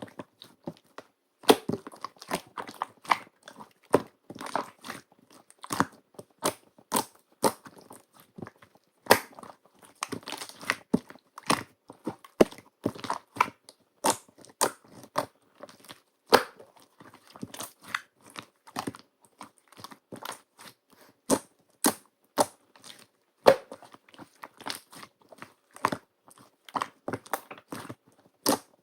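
Slime being pressed and kneaded by hand, giving irregular sharp clicks and pops, one to three a second, with faint crackle between.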